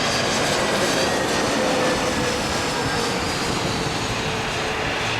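Jet airliner engines running, a steady loud rush of noise with faint high whining tones.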